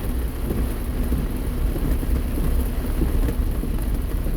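Steady rain and road noise from a car driving slowly through the rain, with a heavy constant low rumble underneath.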